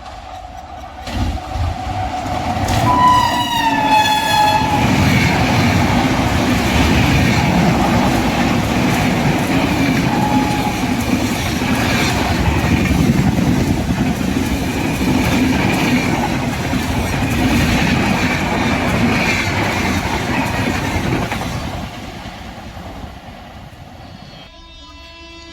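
Express train passing at high speed. The horn sounds about three seconds in and drops in pitch as the locomotive goes by. Then comes about twenty seconds of rumble and wheel clatter as the coaches rush past, fading near the end.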